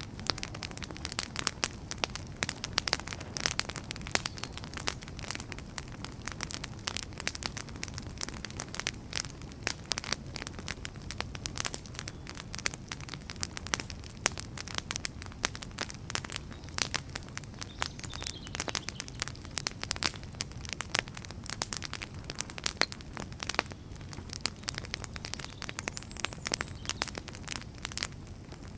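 Wood fire crackling: dense, irregular pops and snaps from burning logs over a steady low rumble of the flames.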